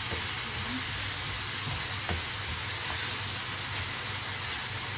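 Banana slices sizzling steadily in melted butter and brown sugar in a frying pan as they are stirred with a spatula. The sugar is melting into a syrupy caramel coating. The spatula knocks lightly against the pan a couple of times.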